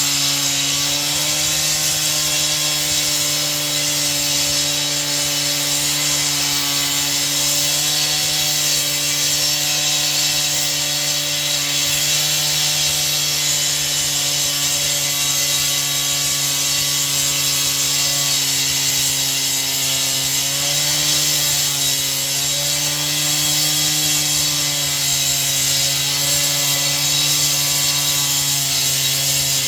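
Power saw running steadily through a long, continuous cut. Its pitch dips slightly now and then as it takes load.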